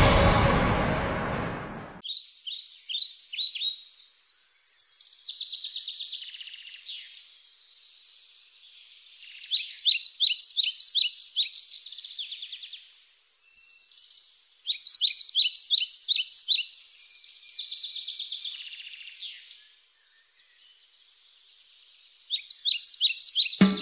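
Birds singing: runs of quick, repeated high chirps in several bursts, with nothing low underneath. Theme music fades out over the first two seconds, and band music starts at the very end.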